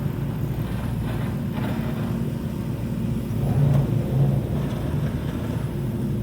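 Modified car's exhaust rumbling as it rolls slowly past, briefly louder a little past halfway as the engine is revved.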